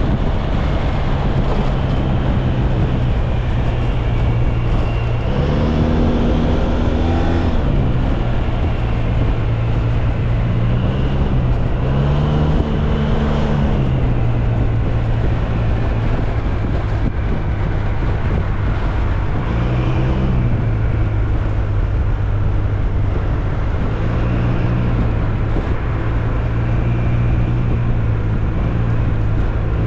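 SYM Maxsym TL 508 maxi-scooter's parallel-twin engine running while riding, its note rising and settling back several times as the throttle is opened and eased. A heavy rushing noise of wind and road runs under it.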